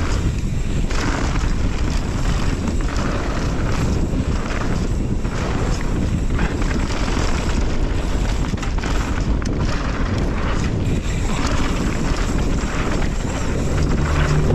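Wind buffeting a GoPro microphone while riding a mountain bike downhill, with the rumble and rattle of the bike rolling over a dirt trail. A low steady hum comes in near the end.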